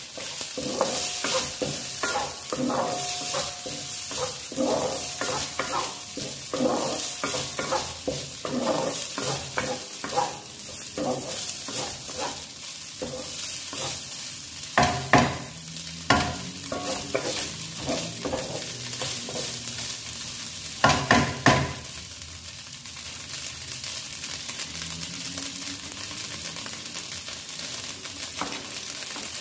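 Diced carrot, meat loaf and minced pork frying in oil in a pan, sizzling steadily while a wooden spatula scrapes and stirs them in quick strokes. A few louder knocks come a little past halfway, and near the end the stirring stops, leaving only the sizzle.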